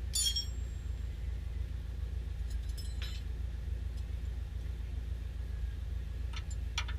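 A metal tool clinks once with a short ring, followed by a few light clicks, over a steady low hum.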